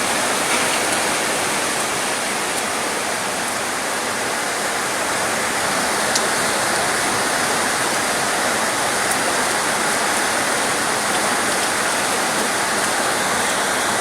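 Steady heavy rain, an even rushing hiss with no let-up.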